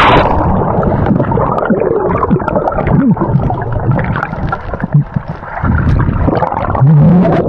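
Swift river rapid heard underwater: rushing, gurgling current with scattered bubble pops, muffled and dull because the microphone is below the surface.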